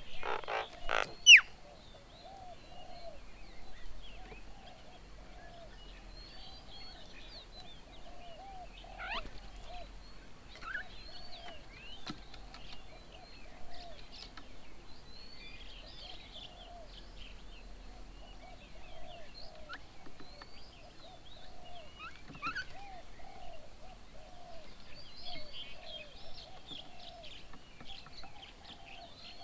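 Mixed birdsong: a continuous run of short low notes under many scattered higher chirps and whistles, with one loud, sharp rising call just over a second in.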